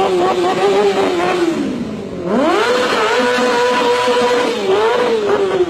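Yamaha R6 sport bike's inline-four engine revving hard: the revs ease off about two seconds in, then climb sharply and hold high before dropping back near the end.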